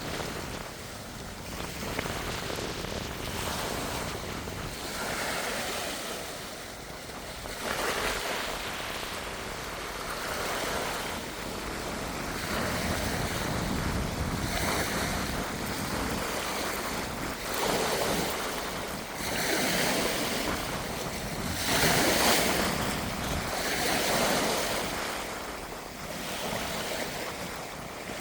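Strong gusty wind: a rushing noise that swells and eases every couple of seconds, with wind buffeting the microphone.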